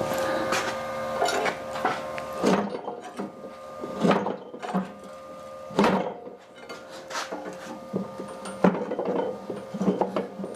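Irregular knocks, clunks and scraping from heavy gear being handled. A steady hum runs underneath at first and cuts out after about two and a half seconds.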